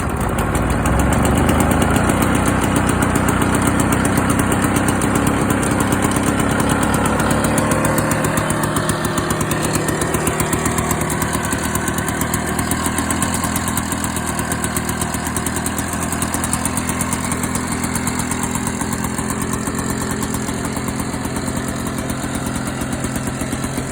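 Victa VC Mustang lawn mower's Mk3 two-stroke engine running steadily just after a cold start, having sat unused for over a year. It runs a little harder for the first several seconds, then settles to a slightly quieter, even run.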